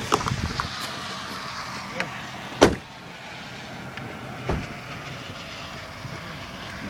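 Car door being opened and someone getting out, with a few light clicks at first and one sharp, loud slam of the car door about two and a half seconds in, over a steady background hiss.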